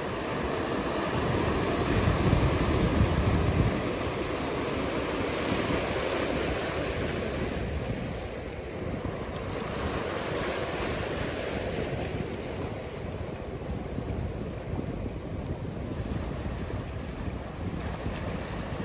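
Ocean surf washing steadily, with low wind buffeting on the microphone. There is a louder rumbling surge about two to four seconds in.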